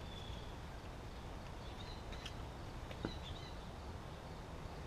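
Quiet outdoor background with a few faint, short bird chirps, and a couple of light clicks about two and three seconds in as a small cardboard parts box is handled.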